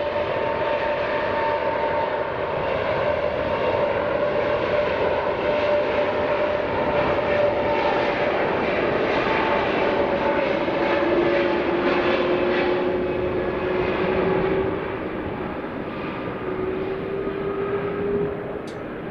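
Jet airliner's turbofan engines at takeoff power: a loud roar with steady whining tones over it. It grows quieter after about fifteen seconds.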